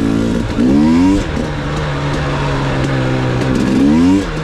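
Two-stroke engine of a KTM 250 XC-W TPI dirt bike being ridden, revving up sharply twice, about half a second in and again near the end, with a steadier lower note between.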